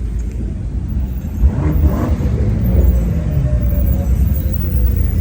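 Car engine rumbling steadily, with a brief knock about one and a half seconds in.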